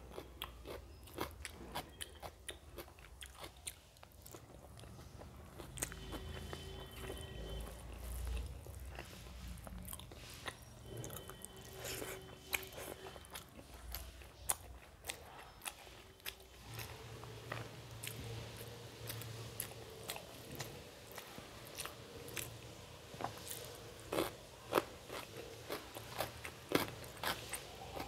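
Close-miked chewing of hand-eaten rice and curry, with wet mouth clicks and smacks at irregular intervals.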